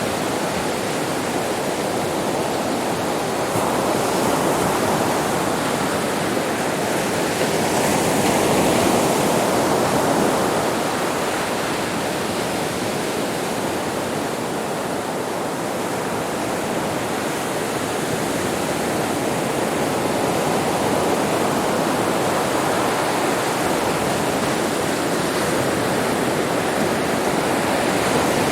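Sea waves breaking on a beach: a continuous wash of surf that swells and eases slowly, louder about 4 and 9 seconds in.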